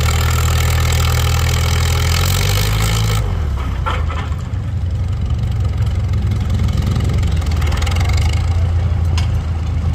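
Antique farm tractor engine running hard. About three seconds in its pitch drops and the noise eases off as it throttles back, and it then runs on at a lower, steady speed.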